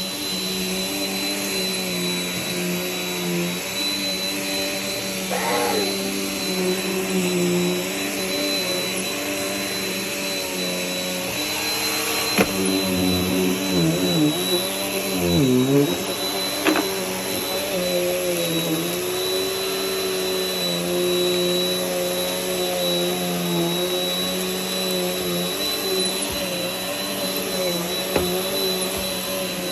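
Vacuum cleaner running steadily with a thin high whine over its motor hum. Its pitch dips and wavers briefly about halfway through, with a couple of sharp clicks around then.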